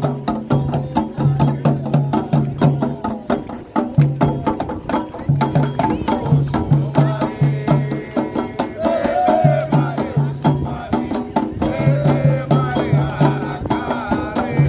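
Candomblé ritual drumming: atabaque hand drums playing a fast, steady toque, with a bell or stick keeping a sharp, even pulse over the low repeating drum tones. Voices sing over it partway through.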